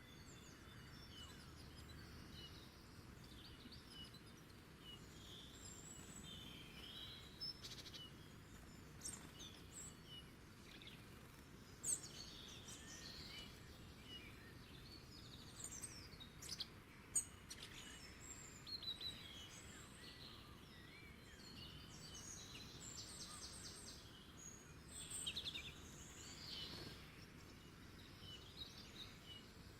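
Wild songbirds chirping and singing faintly, many short scattered calls and a few quick trills, over a steady background hiss.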